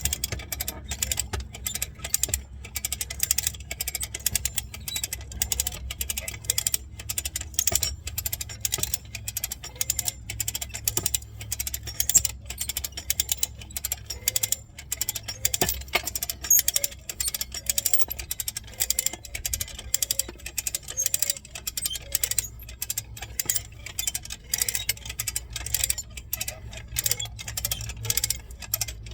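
Hand-ratcheted come-along winch being cranked, its pawl clicking rapidly and continuously as the chain tightens to pull a concrete fence-post footer out of the ground. A steady low rumble runs underneath.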